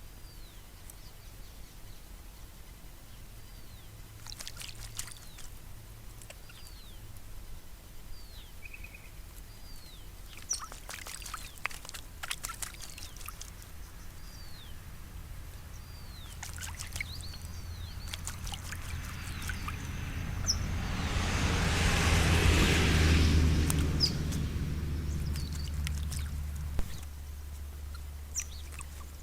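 Mallee ringneck parrots splashing in a water trough in scattered bursts, while a bird repeats short down-slurred calls about once a second. In the second half a broad rumbling noise swells over several seconds, then fades.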